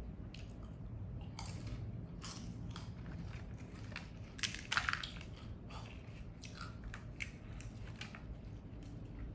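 Close-up crunching and chewing of crisp fried tortilla chips from a tostada shell: a run of short crackly bites and chews, the loudest crunches about halfway through.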